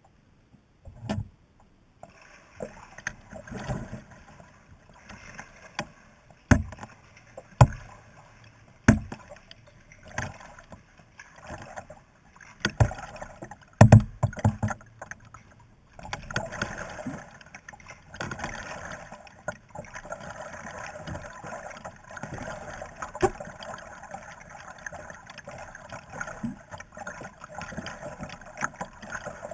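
Kayak paddling: paddle strokes splashing in the water, with several sharp knocks in the first half. The splashing turns steadier in the second half.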